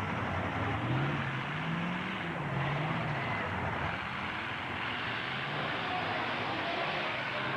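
Demolition derby trucks' engines running and revving over a steady wash of engine noise; one engine's pitch rises and falls between about one and three seconds in.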